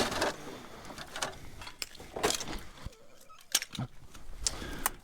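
Hands rummaging through junk in a dumpster: scattered clatters, knocks and rustles as items are shifted and pulled aside.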